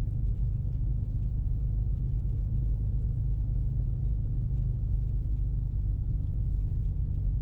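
Steady low rumble of a 2024 Ford Mustang EcoBoost driving on snow as it climbs a hill, heard from inside the cabin: its 2.3-litre turbocharged four-cylinder under load, mixed with tyre and road noise.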